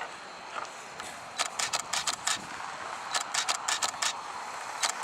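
Hurried footsteps with carried gear rattling: three runs of quick sharp clicks and jingles, about five a second, over a steady hiss.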